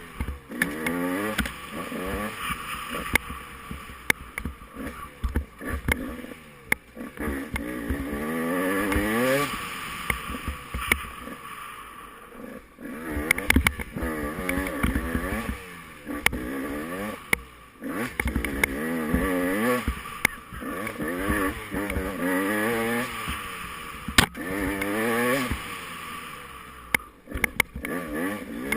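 Off-road dirt bike engine revving up and dropping back again and again, about every couple of seconds, as it accelerates, shifts and backs off through a cross-country race course. Sharp knocks and clatter from the bike crossing rough ground.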